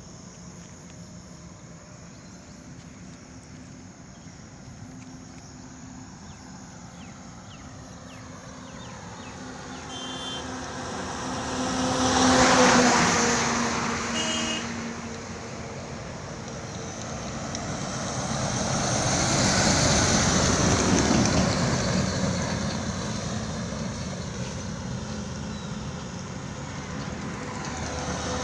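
Road vehicles driving past one after another over a steady traffic background: a loud pass about twelve seconds in, a longer, slower one around twenty seconds, and another approaching near the end, each with engine and tyre noise that swells up and dies away as its engine note drops in pitch.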